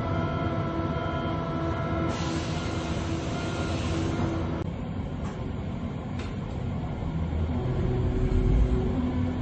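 Berlin U-Bahn U3 train running, heard from inside the car: a steady motor hum with whining tones, a hiss for a couple of seconds, two short clicks midway, and a low hum swelling near the end.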